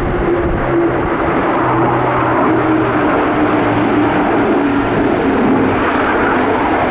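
Military aircraft flying past, a loud steady roar with a faint tone that slowly falls in pitch as it goes by.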